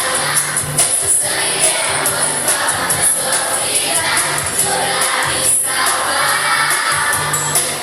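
Children's choir singing a church song over a musical accompaniment.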